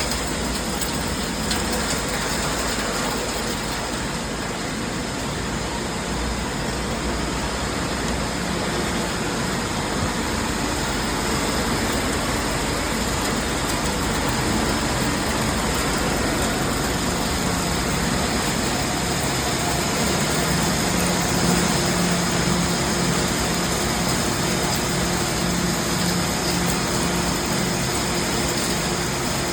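Industrial fridge-recycling machinery running: a continuous, dense mechanical din, with a low hum that grows stronger in the second half.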